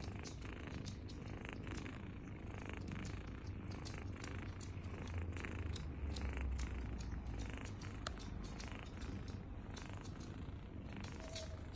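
Cat purring steadily with a low rumble, while kittens suckle, making many small irregular clicks over the purr.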